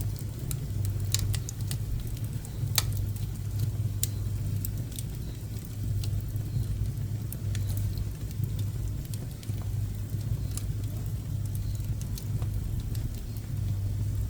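Pine and woodworking scrap wood burning in a wood stove: scattered sharp crackles and pops, a few louder ones, over a steady low rumble.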